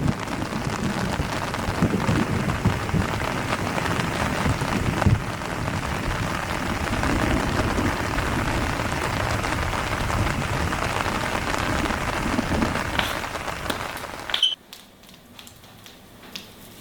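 Steady rain-like noise with a low rumble, cutting off abruptly near the end to a much quieter background.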